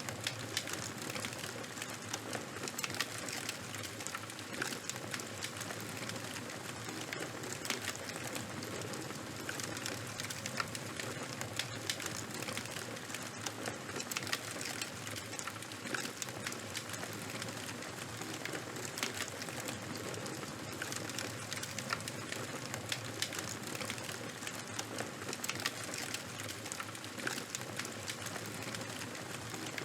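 Open charcoal and wood fire burning: a steady hiss with frequent small crackles and pops scattered throughout.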